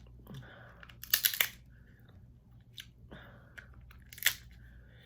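Snow crab leg shells cracking and crunching with close-up chewing; the sharpest cracks come about a second in and again near the end.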